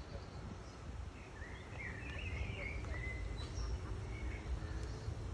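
Outdoor background rumble with a few high, twittering bird calls in the first half, and a couple more fainter chirps a little later.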